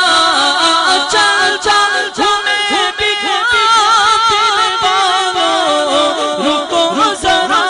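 Unaccompanied devotional singing of a naat: voices hold a long, wordless melodic line. In the middle the line turns into a wavering, trill-like ornament.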